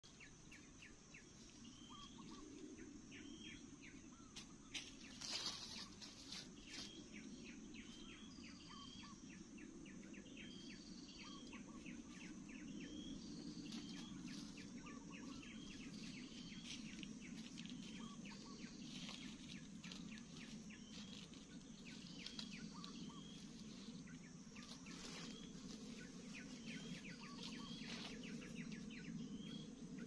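Birds chirping outdoors: short high chirps repeated about once a second, over a faint steady low background rumble, with one brief burst of noise about five seconds in.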